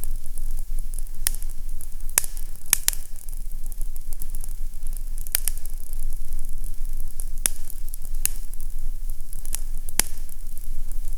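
Fireplace crackling: a steady hiss with sharp wood pops at irregular moments, about eight of them, over a constant low rumble.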